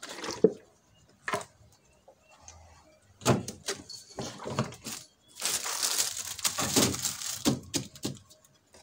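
Plastic fridge mats being handled and laid on fridge shelves: scattered knocks and clicks, then about two seconds of crinkling and rustling a little past halfway, and a few more knocks near the end.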